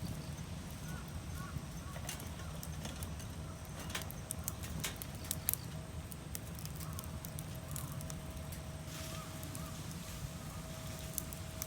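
Outdoor ambience: a steady low rumble with scattered sharp clicks and crackles, and a few faint chirps now and then.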